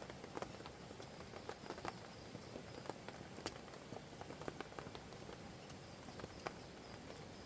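Wood campfire crackling with irregular sharp pops, over the steady hiss of a flowing river.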